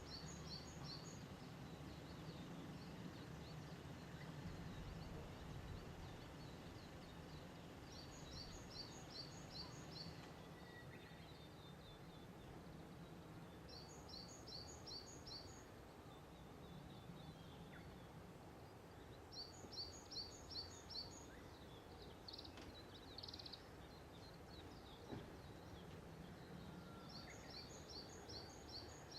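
A small songbird singing faintly, repeating a short phrase of five or six quick high notes about every six seconds, over a low steady background rumble.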